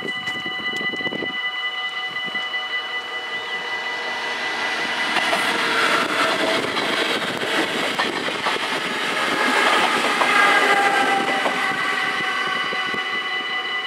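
An NS SGMm Sprinter electric train passes over a level crossing, its wheels and running gear swelling in from a few seconds in, loudest through the middle and easing near the end. Under it the crossing's warning bells ring on steadily, as several held tones.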